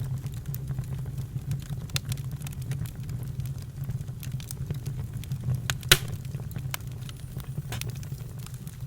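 Campfire crackling, with scattered sharp pops over a steady low rumble; one louder pop comes about six seconds in.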